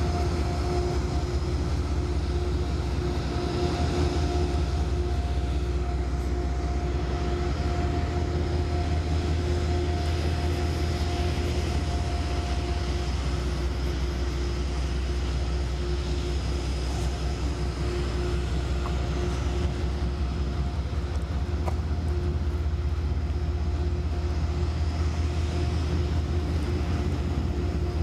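GE Genesis P32AC-DM diesel locomotive idling at standstill: a steady low drone with a constant whine over it.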